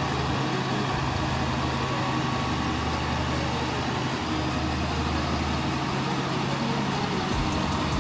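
Heavy diesel engine of a logging vehicle running steadily. Its note shifts about four seconds in and again near the end.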